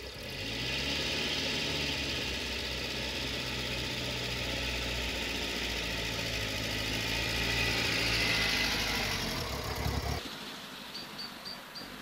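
1950 Mercedes-Benz 170Va's side-valve four-cylinder engine running as the car drives slowly, its pitch rising just after the start and again near the end as it gets louder. The engine sound cuts off suddenly about ten seconds in, leaving faint background noise with a quick row of short high pips.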